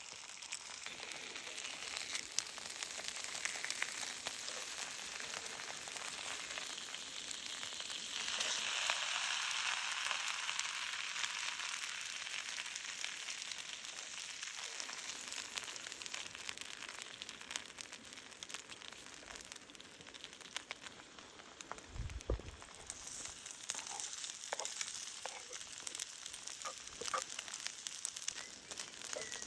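Food sizzling as it fries over a campfire, a steady hiss full of small crackling pops that swells louder about eight seconds in and then eases back. A single low thump comes about three-quarters of the way through.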